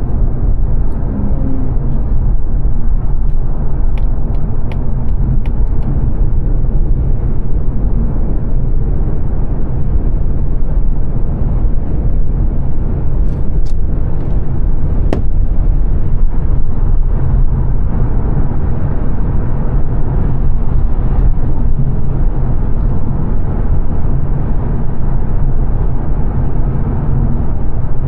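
Road noise inside a 2022 Mazda 3 saloon cruising at motorway speed: a steady low rumble of tyres and engine with wind hiss. A few faint clicks come a few seconds in and again about halfway through.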